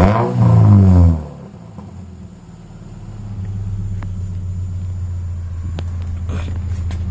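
Muffler-deleted Subaru Impreza 2.5i flat-four exhaust: a short rev blip right at the start that falls back within about a second, then the engine settles into a steady, low, loud rumble that holds to the end.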